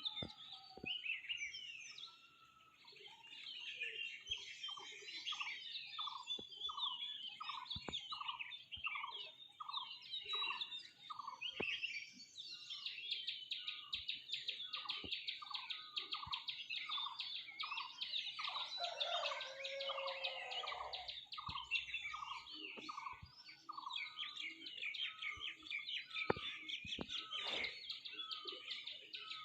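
A chorus of many birds: dense high-pitched chirping and twittering over a steady series of repeated lower whistled notes, a little more than one a second, broken by a few short pauses.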